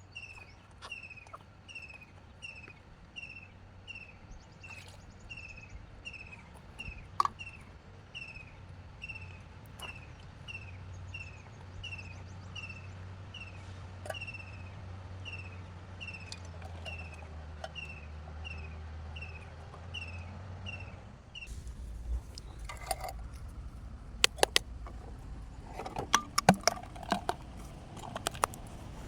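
A small animal's high chirp repeated steadily, about four every three seconds, each a short falling note; it stops suddenly about three quarters of the way through. After it come several sharp knocks and clatters.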